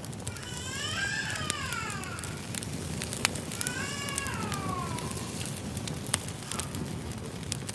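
Wood fire crackling with sharp pops, and two drawn-out high calls that rise then fall in pitch, one near the start and one about halfway through.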